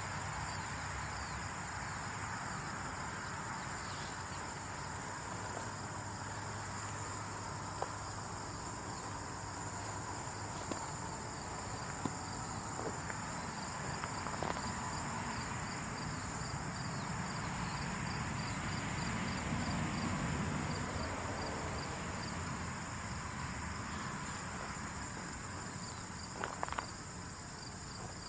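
Steady, high-pitched insect chirring over a faint hum and hiss, with small ticks and crackles scattered through it and a brief cluster of louder ticks near the end: a sound-effect ambience meant as ants building a colony.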